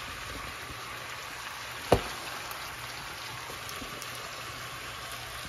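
Chicken pieces frying in hot oil in a wok-style pan with a steady sizzle, and one sharp knock about two seconds in.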